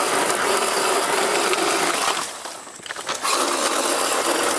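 Power saw cutting through brush limbs in two runs, with a break of about a second near the middle.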